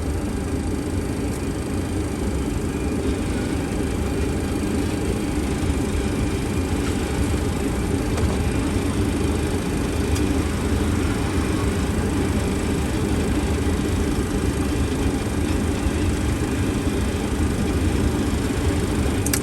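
Steady rumble of airflow and engines on an MD-80 flight deck on final approach, with gear and flaps down.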